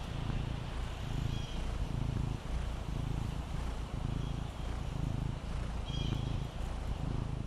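Maine Coon cat purring steadily, the low rumble swelling and easing about once a second with its breaths.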